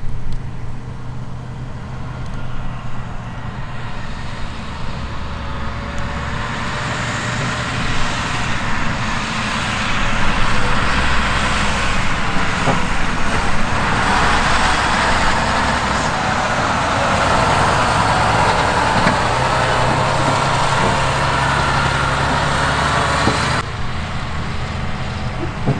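Heavy diesel farm machinery running at work. A broad rushing noise builds over several seconds and holds loud, then drops off abruptly near the end, leaving the low engine hum.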